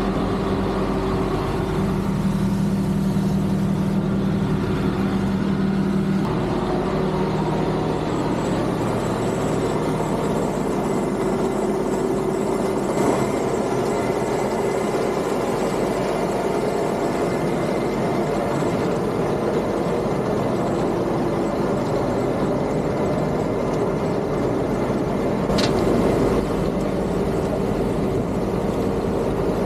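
John Deere tractor engines and harvesting machinery running steadily in a continuous drone, with a held engine tone for the first six seconds. A brief sharp click comes near the end.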